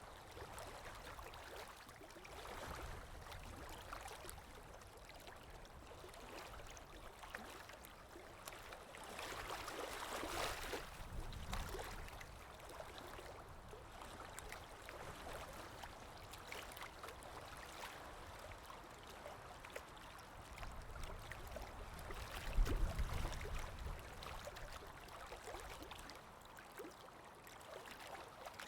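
Water lapping with wind: a soft, steady wash that swells about ten seconds in, with a low rumble of wind rising to a peak a little past twenty seconds.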